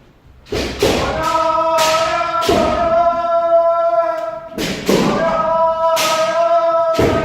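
Kendo practitioners giving long, held kiai shouts, two drawn-out calls one after another, over repeated sharp cracks of bamboo shinai striking armour and stamping feet on the dojo floor during a striking drill.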